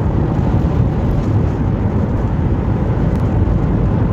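Steady road and engine noise of a moving car, heard inside the cabin as an even low rumble.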